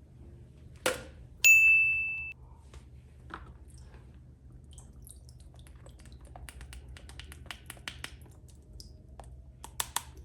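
A sharp click, then a loud, bright ding that rings and fades within a second. After it come scattered small clicks and taps of plastic toys and packaging being handled, with a quick cluster of clicks near the end.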